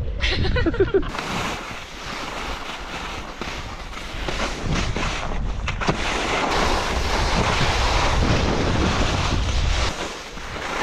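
Wind buffeting the microphone: a steady rushing hiss with gusty low rumbling that eases near the end.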